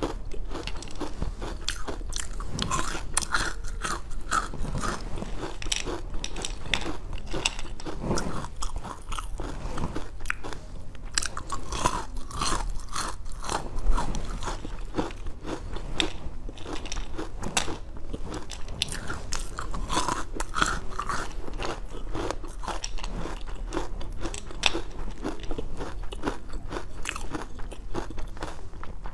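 Close-miked chewing and biting of sugar-coated jelly candy cubes, a dense, continuous run of small crisp clicks.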